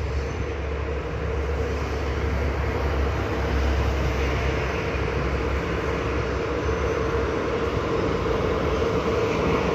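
Train running past: a steady rumble with a constant hum, getting a little louder over the first few seconds.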